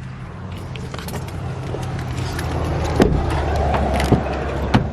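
Rustling and handling noise with three sharp clicks in the second half, over a steady low hum.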